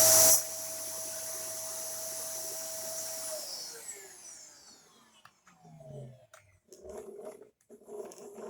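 Dyson upright vacuum cleaner motor running with a steady high whine. Its level drops sharply just after the start. About three seconds in it is switched off, and the whine falls away as the motor spins down, followed by a few clicks and knocks of handling.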